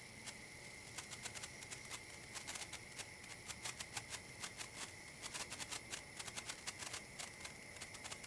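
Senko hanabi (Japanese incense-stick sparkler) crackling faintly as its glowing ball throws sparks: quick, irregular tiny pops, a few at first, then many in rapid clusters, thinning out near the end.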